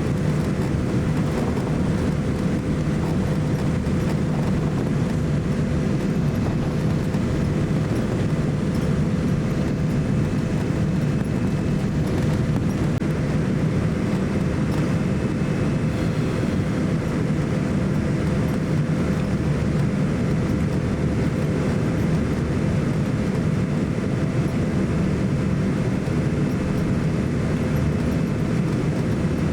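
Steady cabin noise inside a Boeing 787-9 airliner, a low even rumble with a faint steady hum above it.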